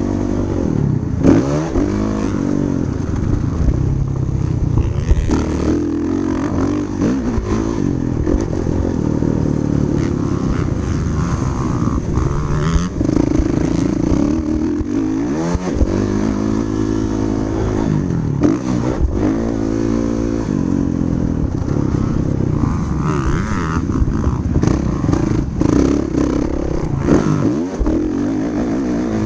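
Motocross dirt bike engine revving hard and easing off as it is ridden round the track, its pitch climbing and dropping again every few seconds through the gear changes.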